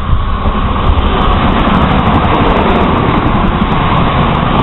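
CrossCountry Voyager diesel multiple unit passing close by at speed: a loud, steady rush of train noise.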